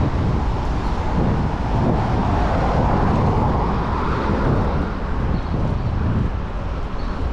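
Wind rumbling on the microphone of a moving bicycle, mixed with city road traffic, and a swell in the noise from about two to four and a half seconds in.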